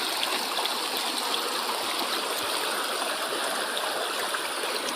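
Shallow river water running and babbling steadily over stones.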